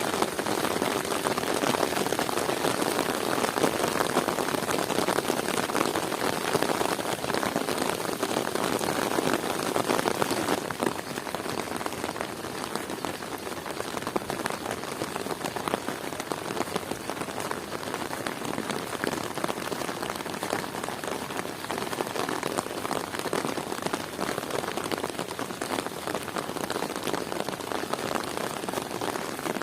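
Heavy rain falling steadily, a dense patter of countless drops. It is slightly heavier at first and eases a little after about ten seconds.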